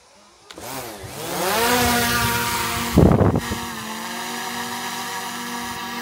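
Camera drone's propeller motors spinning up from rest, the whine rising in pitch and settling into a steady multi-tone buzz. A brief loud rush of air hits the microphone about three seconds in.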